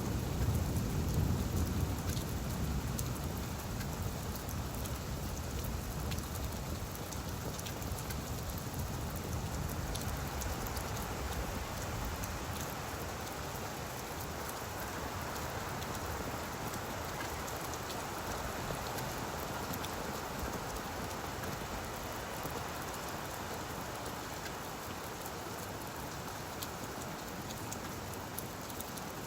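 Steady rain falling on leaves, a dense patter of drops. A low rumble sits under it in the first few seconds and fades away.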